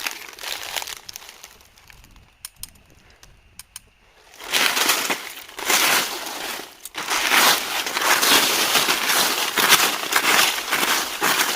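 Dry leaves and vegetation rustling and crunching in irregular bursts. It drops to a quiet lull with a few faint clicks about two seconds in, then comes back dense and continuous from about four and a half seconds.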